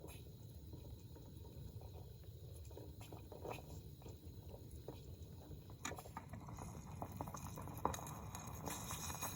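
Coleman Peak 1 camp stove burner running steadily with a low rumble, while soup heating on it starts to bubble and pop. The pops get more frequent in the second half.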